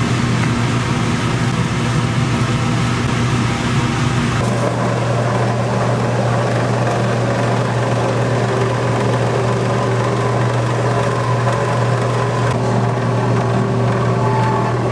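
Steady loud drone of commercial kitchen machinery, a low hum over a rushing noise such as wok burners and exhaust fans, changing abruptly about four seconds in and again near the end.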